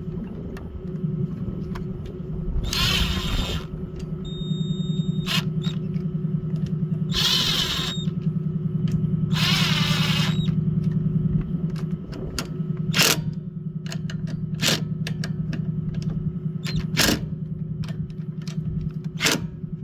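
Power driver running in three short bursts as it tightens a valve cover's three screws, over a steady low hum. Several sharp clicks follow in the second half.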